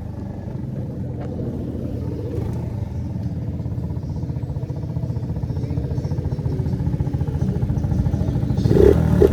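Small 50cc Phoenix moped engine running at fairly steady revs, growing steadily louder as it approaches and loudest near the end as it passes close.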